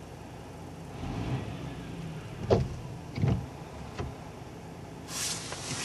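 Truck engine revving in the distance, a low steady rumble, with a few short knocks and a brief hiss near the end.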